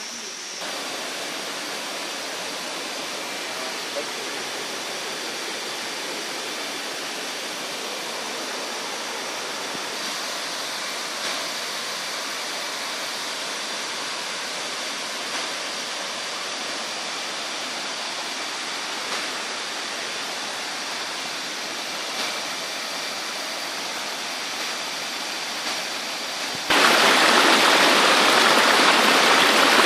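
Waterfall rushing, a steady roar of falling water; about 27 s in the sound jumps abruptly to a louder, fuller rush.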